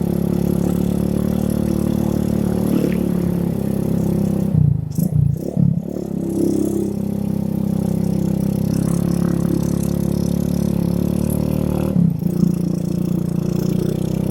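Yamaha Vega R underbone motorcycle's single-cylinder four-stroke engine running steadily under way, picked up by a phone in the rider's shirt pocket. The steady engine note breaks up briefly about four and a half seconds in and again near twelve seconds.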